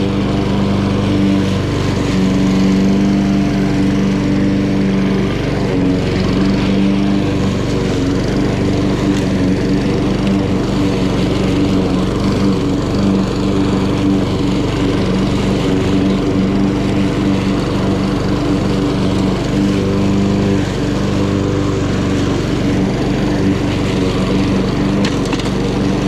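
Honda HRN216 self-propelled lawn mower's GCV170 single-cylinder engine running steadily while cutting grass.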